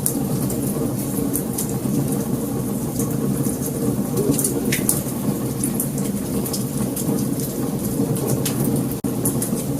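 Wood fire burning, with scattered sharp crackles and pops over a steady low rumble of the flames. The sound cuts out for an instant about nine seconds in.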